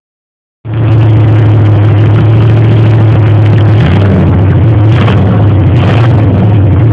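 Buick 455 V8 engine with a Rochester 4-barrel carburettor running loud just after a cold start without choke, heard through a cellphone microphone. The engine note starts abruptly under a second in and holds steady, with a slight shift in pitch about four seconds in.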